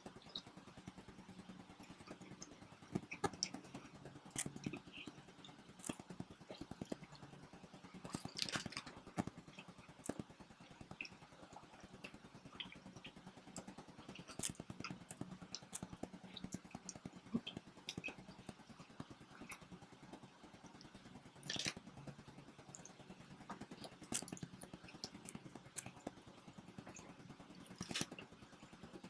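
People eating pizza up close to the microphone: soft chewing and bites with scattered small clicks and crackles, and a few louder crunchy bites, over a faint steady hum.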